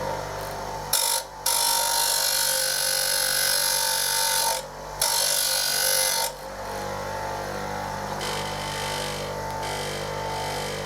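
Bench grinder regrinding a blunt steel chisel. A harsh grinding hiss rides over the motor's steady hum in two spells, from about a second in to about six seconds in, with a short break near the middle. After that the motor runs on alone with the wheel free.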